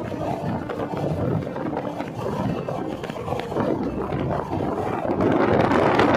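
Passenger train running at speed, heard through an open window: a steady rumble of wheels on the rails mixed with wind buffeting the microphone, growing louder about five seconds in.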